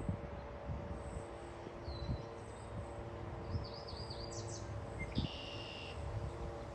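Songbird calls over a steady low outdoor rumble with a faint hum: a short chirp about two seconds in, a quick run of rising-and-falling notes in the middle, and a buzzy note a little after five seconds.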